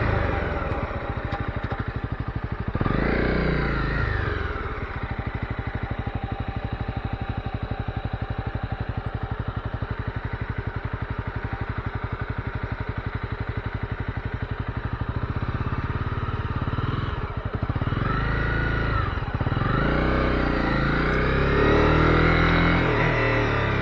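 Honda CB250R's single-cylinder four-stroke engine idling with an even putter, revved briefly about three seconds in, then revving up and down again several times in the last few seconds.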